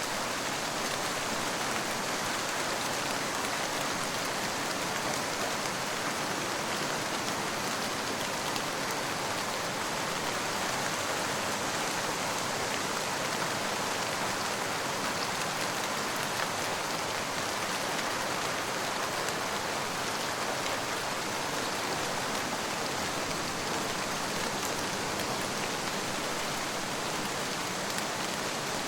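Steady rain falling: an even, unbroken hiss with a fine patter of individual drops. No thunder.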